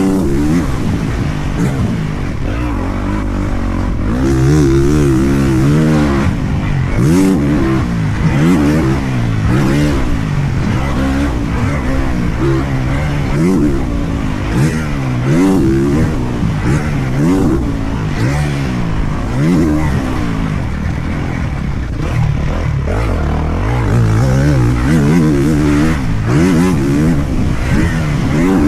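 Motocross dirt bike engine revving up and falling back again and again, the pitch climbing and dropping every second or two as the rider works the throttle and gears on the track.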